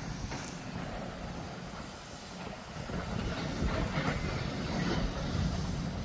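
Heavy mechanical rumble with scattered clanks and knocks, growing louder in the second half.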